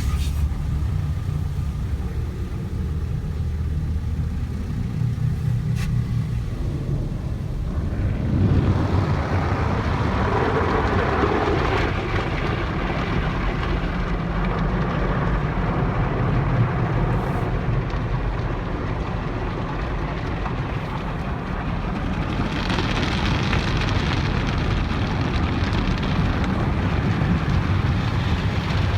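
Automatic car wash heard from inside the car: a low, steady rumble at first. From about eight seconds in, a dense rush of water spray and wash equipment works against the car's body, turning hissier about twenty-two seconds in.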